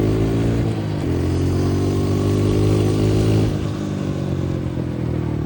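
Dirt bike engine running under way, its pitch climbing slowly. The note breaks briefly about a second in, then drops and quietens about three and a half seconds in as the throttle eases off.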